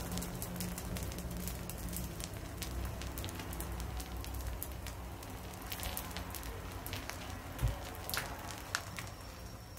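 Dosa batter sizzling on a hot iron tawa, a steady hiss full of small crackles and pops as the batter cooks. A low hum runs under the first half, and there is one soft low thump about three-quarters of the way through.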